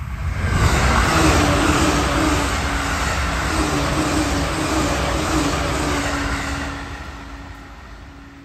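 JR East E657 series limited express electric train passing close at speed: a rushing rumble of wheels on rail that swells within the first second, holds for several seconds and fades from about seven seconds in as the train draws away, with a steady low hum underneath.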